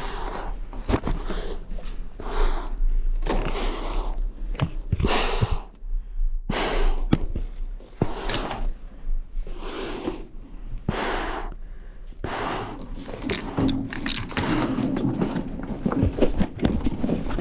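Heavy, rapid breathing close to the microphone, about one breath a second, with a few knocks and scrapes among it.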